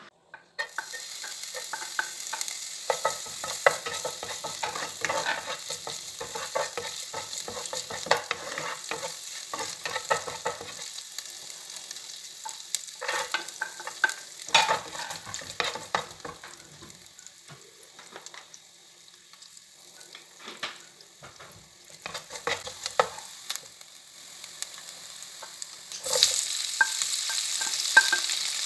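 Chopped ingredients sizzling in hot oil in a non-stick pot, with a wooden spatula stirring and clicking against the pan. Near the end the sizzle jumps suddenly louder and hissier, with sliced onions and chopped ginger in the oil.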